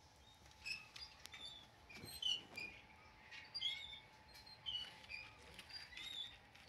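Small birds chirping: many short, high chirps in quick succession, often overlapping, with a few sharp clicks and a louder knock about two seconds in.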